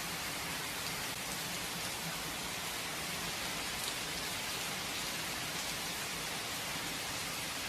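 Steady rain falling and pattering on surfaces, an even hiss with faint scattered drop ticks and no thunder.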